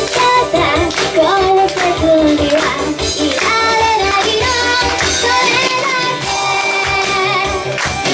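A woman singing a high, bright pop song over loud backing music with a steady beat.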